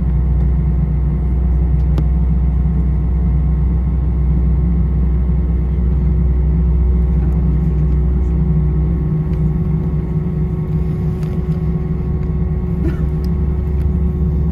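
Steady low rumble and hum inside an Airbus A320 passenger cabin on the ground before takeoff, with a few constant tones over it and a small click about two seconds in.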